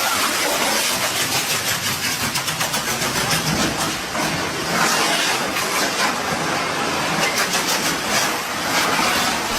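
Fireworks going off as a continuous, dense crackle and hiss, with a fast run of sharp cracks in the middle.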